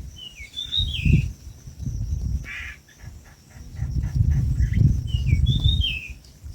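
A bird calls twice with a short chirping phrase that rises and falls, and gives a brief harsh note between the two. Under the calls a loud, uneven low rumble comes and goes.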